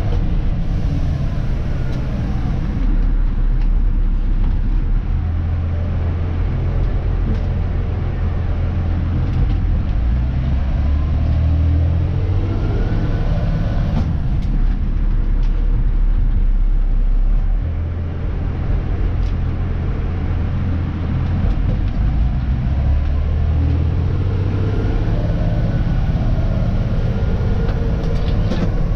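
Dennis Elite 2 refuse truck's diesel engine heard from inside the cab while driving, its whine rising twice as the truck picks up speed and falling away again.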